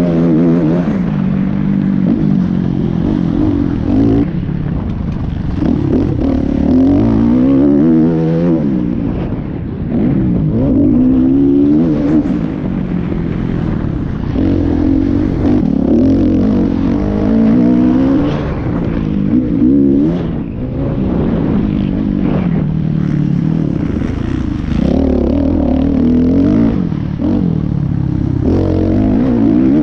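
Motocross bike engines revving, their pitch rising and falling again and again throughout.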